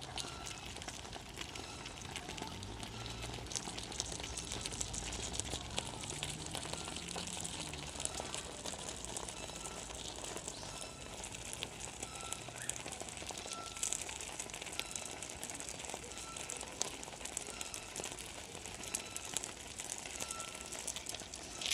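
Small campfire crackling, with many fine pops over a steady hiss. A short high chirp repeats about once a second.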